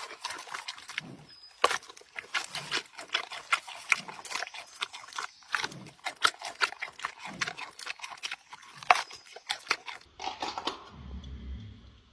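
An animal eating crunchy food close up: rapid, irregular crunching and chewing, with short low sounds every second or two. The crunching stops near the end, leaving a faint low hum.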